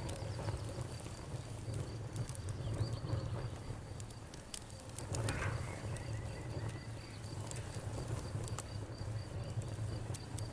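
Campfire crackling, with scattered sharp pops over a low steady rumble, while an insect chirps in a fast, even pulse in the background.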